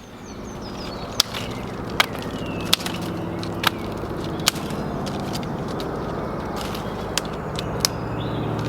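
Dry sticks snapping sharply, about seven cracks at irregular intervals, as wood is broken up for a camp fire. A steady low drone runs underneath.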